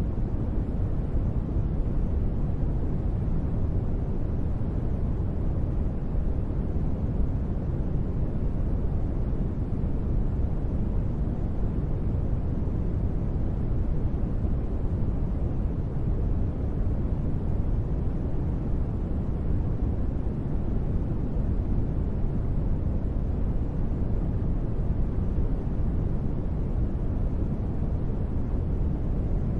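Continuous deep noise ambience, a steady featureless rumble that is mostly low with only a little hiss above. It stays the same throughout, with no tones or separate sounds.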